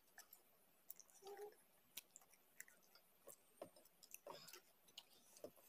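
Faint eating sounds: soft chewing and scattered wet mouth clicks, with fingers mixing rice and curry on a steel plate.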